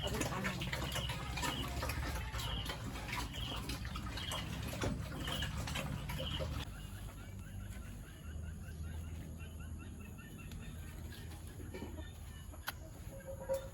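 Chickens clucking, with short high calls repeating every half second or so in the first half and quieter, busier clucking after an abrupt change in the background partway through.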